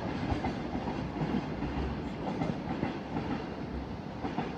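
Freight train of container wagons rolling away along the tracks, its wheels knocking over rail joints and points, slowly fading.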